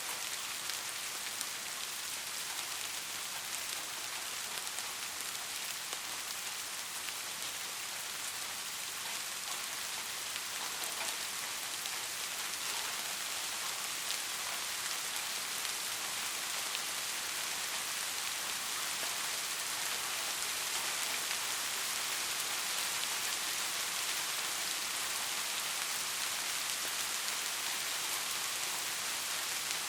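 Steady rain falling, a continuous hiss of drops with scattered individual drop ticks, growing slightly louder about halfway through.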